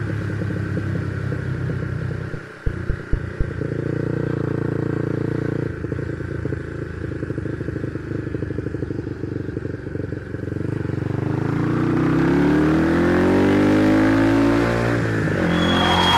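Motorcycle engine running steadily at low revs, with a few sharp clicks about three seconds in. Later it accelerates, its pitch rising, then dipping briefly near the end as it shifts gear.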